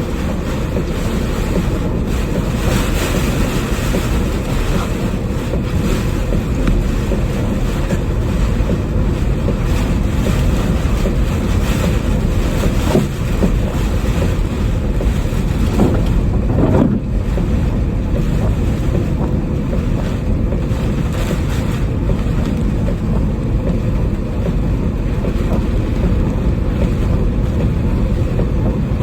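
Typhoon wind blowing hard across the microphone: a loud, steady rush, with a short stronger gust about two-thirds of the way through.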